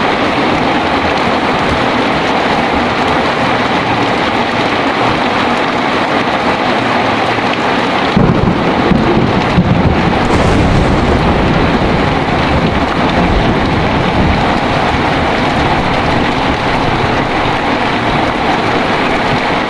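Heavy rain falling steadily, with a low rumble of thunder coming in about eight seconds in and fading away over several seconds.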